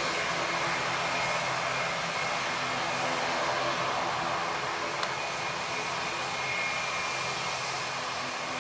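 Jet airliner engines running steadily: an even rushing noise with a low hum and a thin high whine that grows a little stronger in the second half.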